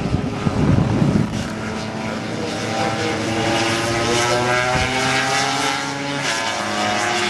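Several classic racing motorcycle engines running at once, their notes overlapping and slowly rising in pitch, with a rough, louder burst of engine noise in the first second or so.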